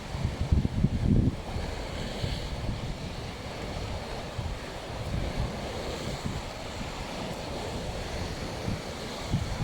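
Black Sea waves washing onto the shore, with wind buffeting the microphone in gusts that are strongest about a second in.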